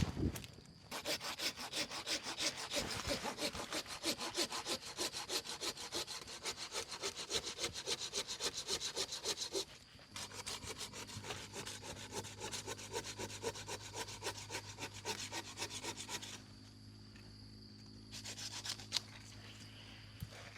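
Hand saw cutting through wood in quick, even back-and-forth strokes. About halfway through the strokes turn lighter, they stop for a moment about three-quarters of the way in, and a few more come near the end.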